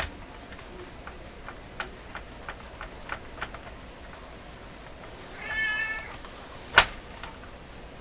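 A domestic cat meows once, about five and a half seconds in, a call under a second long. Light clicks come now and then before it, and a single sharp click shortly after the meow is the loudest sound.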